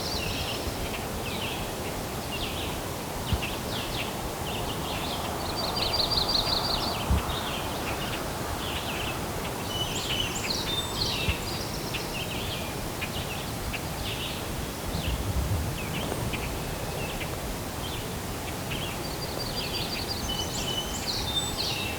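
Several birds chirping and singing over a steady outdoor hiss, with a short, fast trill repeated three times. A breeze stirs leaves for a few seconds a quarter of the way in.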